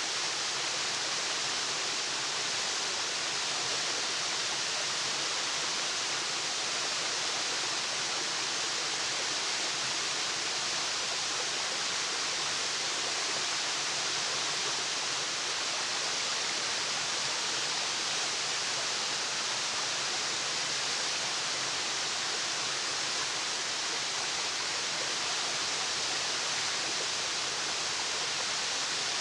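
Waterfall: a steady, unbroken rush of falling water, mostly a bright hiss, with no birdsong or other sounds standing out.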